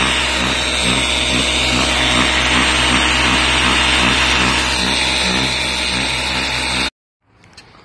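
High-pressure car-wash spray wand running: a steady loud hiss of water over a motor hum, with a pulsing beat about twice a second. It cuts off suddenly near the end.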